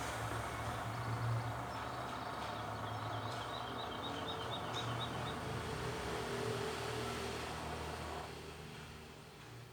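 Heavy vehicle engine running steadily, easing off and fading somewhat near the end. A few seconds in, a quick series of about nine high chirps, about four a second, rises over it.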